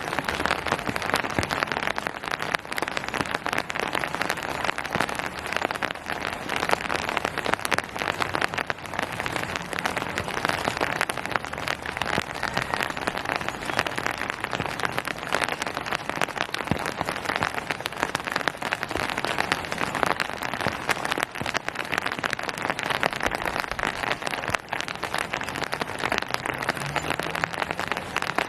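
Steady rain falling on surfaces, a dense patter of countless drops.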